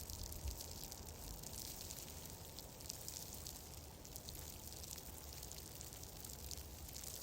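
Fireplace crackling: a steady hiss scattered with many small, quick pops, over a low rumble.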